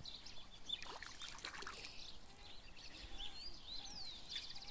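Faint outdoor background with scattered bird chirps, a falling whistle about three and a half seconds in and a quick trill near the end.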